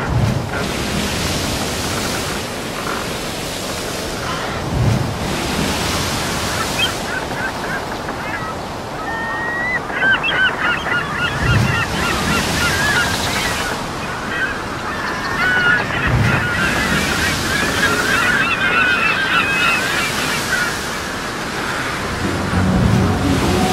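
Surf breaking on a beach in repeated swells, with gulls calling over it again and again through the middle stretch. Near the end, music begins.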